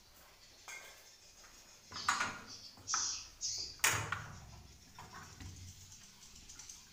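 A few sharp knocks and scrapes with short high chirps between them, from the work of prying swiftlet nests off the wooden nesting planks inside a swiftlet house.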